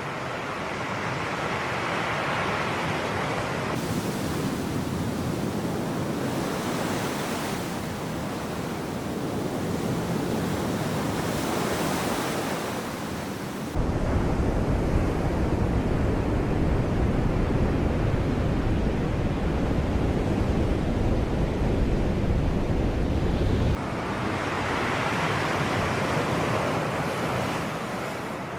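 Sea waves washing in a steady rush of surf. The sound changes abruptly twice. About halfway in, a heavy low rumble of wind on the microphone comes in, and it cuts off a few seconds before the end.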